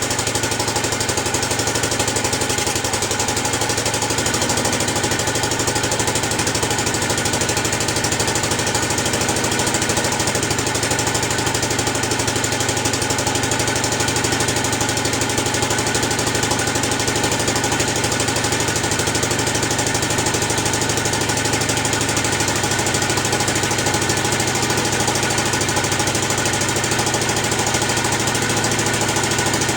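1945 Gravely Model L's single-cylinder engine running steadily with a fast, even firing beat, shortly after its first start following a long lay-up.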